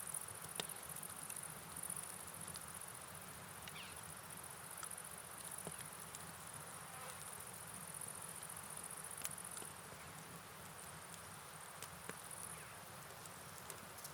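Crickets trilling in a steady high-pitched band over an even hiss of rain and flowing river water, with scattered sharp ticks of drops.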